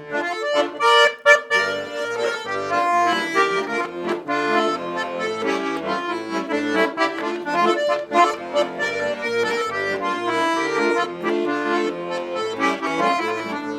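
Russian button accordion playing an instrumental passage between sung verses: a bright melody over a steady, regularly pulsing bass-and-chord accompaniment, with no singing.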